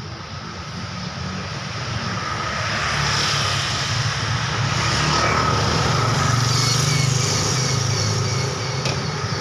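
Road traffic, with a motor vehicle's engine running close by. It grows louder over the first three seconds and then runs steadily, over a haze of traffic noise.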